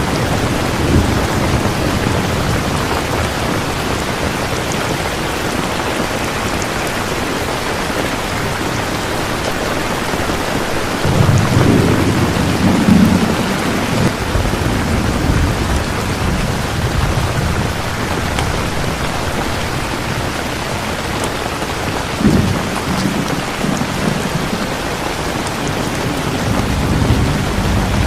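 Steady rain, with low rolling rumbles of thunder. The longest rumble comes about eleven to fourteen seconds in, and a sharper one about twenty-two seconds in.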